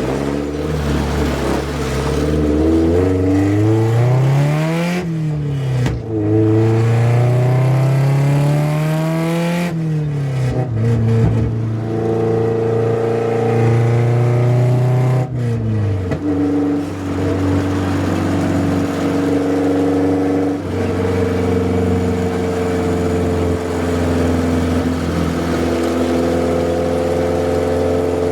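Car engine running open header, with no test pipe or muffler, accelerating through the gears: the engine note climbs and drops sharply at three upshifts, about five, ten and fifteen seconds in, then holds at a steady cruise. It is loud.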